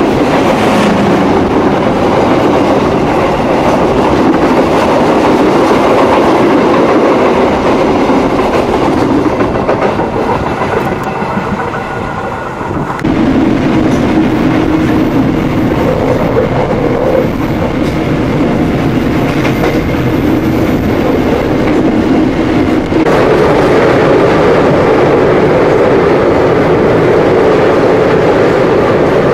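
Indonesian passenger train Senja Utama Solo running at speed: a loud, steady rumble of the wheels on the rails. The sound changes abruptly about 13 seconds in and again about 10 seconds later.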